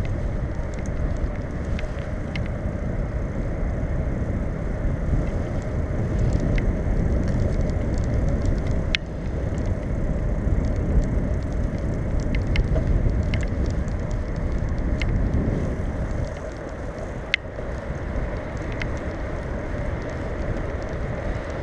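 Steady low rumble of a bicycle being ridden on pavement, wind and tyre noise on the microphone, with a few sharp clicks from the bike about halfway through and again later.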